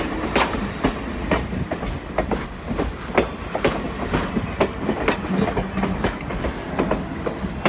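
Passenger coaches rolling past close by: steel wheels clicking and knocking over the rail joints, about two or three times a second, over a steady low rumble.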